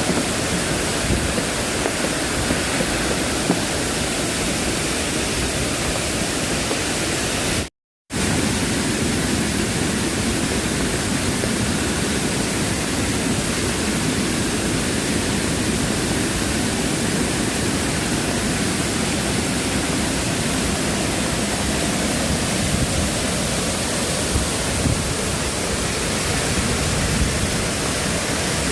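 Steady rush of water, an even noise with no pitch or rhythm, that cuts out for a moment about eight seconds in.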